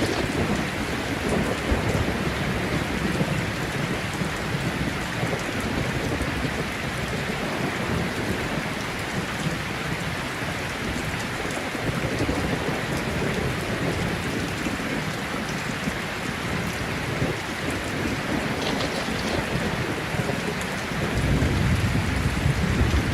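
Thunderstorm: steady rain falling with low thunder rumbling underneath, and a deeper, louder roll of thunder building near the end.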